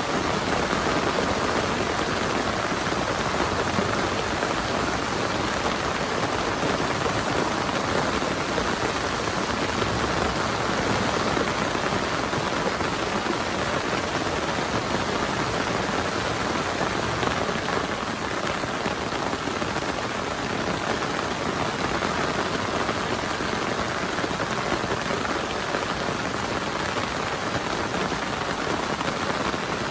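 Heavy rain falling steadily, a dense even patter with no breaks.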